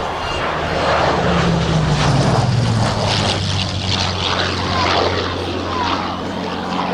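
Hawker Hurricane's Rolls-Royce Merlin V12 engine and propeller running at high power in flight. The engine note drops in pitch over a couple of seconds as the fighter passes, then runs steadily.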